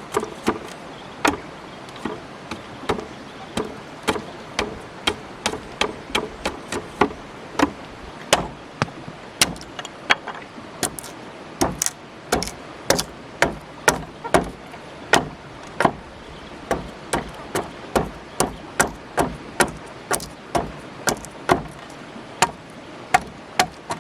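A tool striking wood over and over, sharp knocks at about two a second with short irregular pauses, as in hammering or chopping during construction work.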